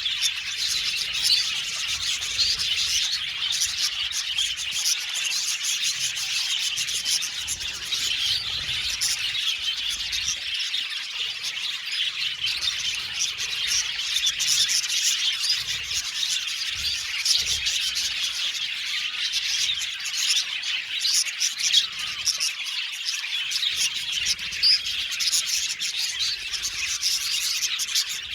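A flock of budgerigars chirping and chattering together, a dense, continuous mix of many overlapping short, high chirps.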